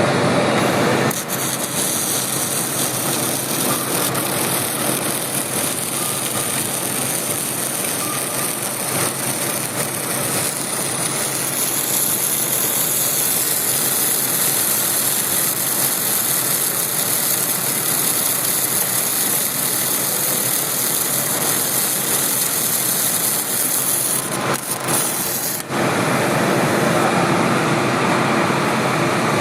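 Steady mechanical din of factory machinery, an even noise with no clear rhythm. It shifts abruptly about a second in and again around 25 seconds.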